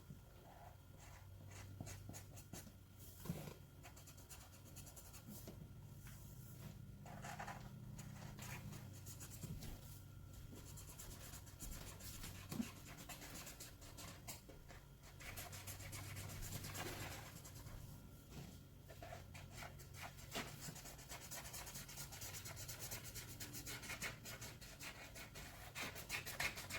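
Faint scratchy strokes of a drawing tool rubbing on paper: a picture being colored in with many quick, repeated strokes.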